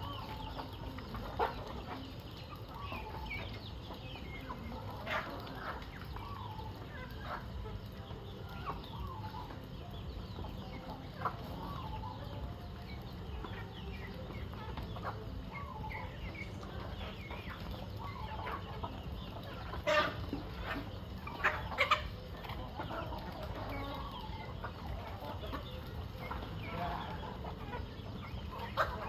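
A flock of chickens clucking continuously in many short, overlapping calls, with a few louder sharp sounds about two-thirds of the way in, over a steady low rumble.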